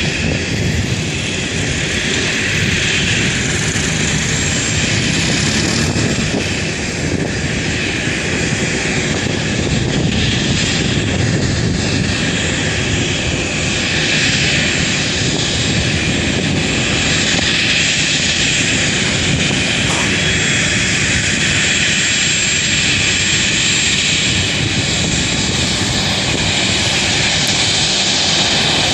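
Azul airliner's engines running steadily while it taxis: a loud, even noise with a thin steady high whine.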